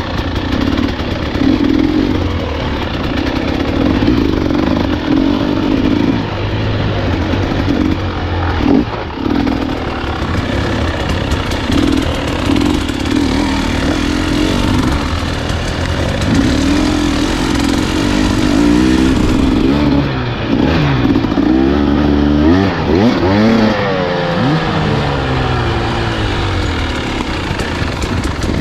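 Enduro dirt bike engine running under way, fairly steady for the first half, then revving up and down several times in quick succession in the second half as the throttle is opened and closed.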